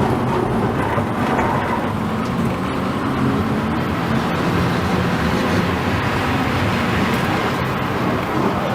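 Car driving at speed: a steady rush of road and wind noise with no rise or fall in pitch.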